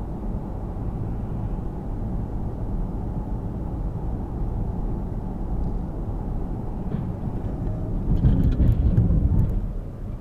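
Steady low rumble of a moving car, engine and tyre noise as picked up by a dashcam inside the vehicle, swelling louder for a couple of seconds near the end.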